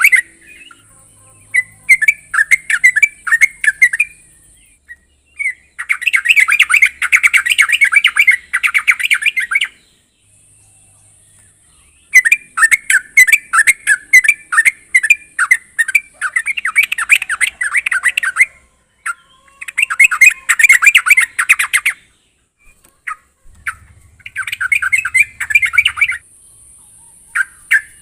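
Yellow-vented bulbul (trucuk) singing in loud bursts of quick, bubbling chattering notes, each burst two to four seconds long with short pauses between them.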